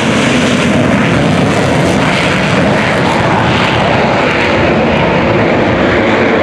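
Loud, steady noise of military aircraft engines running overhead.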